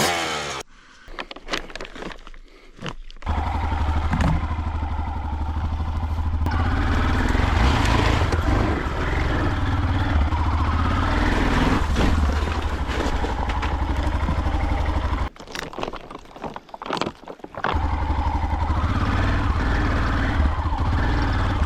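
Enduro dirt bike being ridden, its engine running steadily and strongly from about three seconds in. It drops away for a couple of seconds past the middle, then picks up again.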